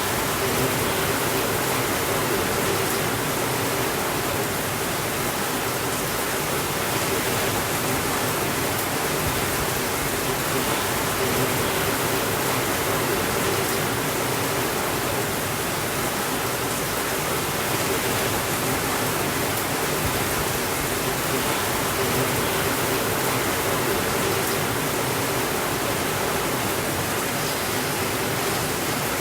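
Heavy rain falling steadily on a window, an even hiss with no breaks or changes.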